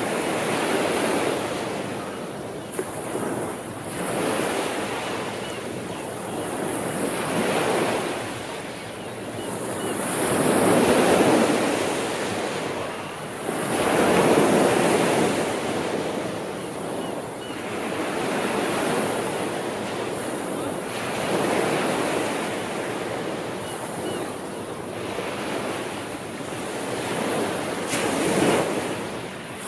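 Ocean waves breaking and washing on the shore, swelling and ebbing every few seconds, the loudest swells about a third and halfway through.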